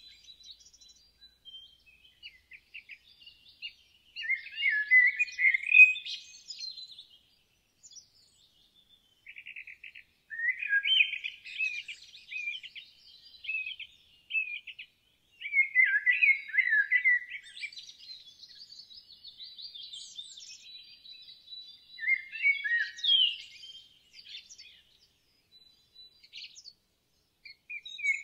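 Songbirds singing: quick, chirping song phrases come in bursts every few seconds, with short pauses and a few softer chirps and a thin high trill between them.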